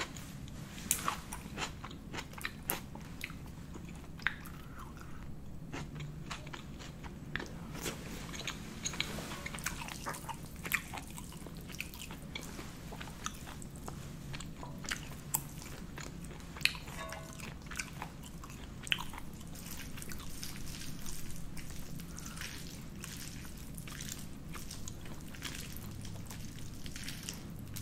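Close-miked eating sounds: a mouthful of spaghetti carbonara being chewed, with frequent short wet smacks and clicks.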